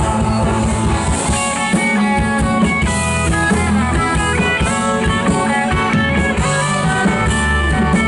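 Live rock band playing an instrumental passage: a guitar plays a lead line of quick stepping notes over bass and drums.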